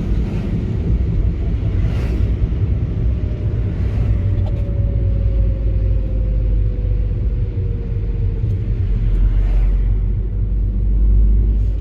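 A car driving along a city street, heard from inside: a steady low rumble of engine and road noise, with a faint tone sliding slowly down in pitch midway.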